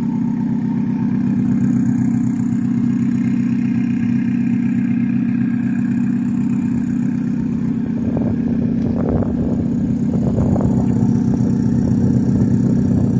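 Turbocharged car engine idling steadily through a new up-pipe muffler while it warms up.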